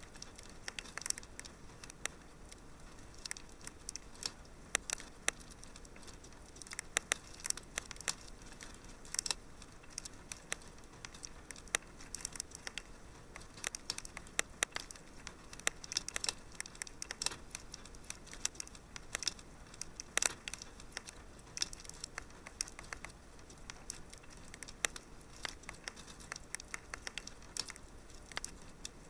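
Wood fire in a fireplace crackling: irregular sharp pops and snaps over a faint steady hiss of burning.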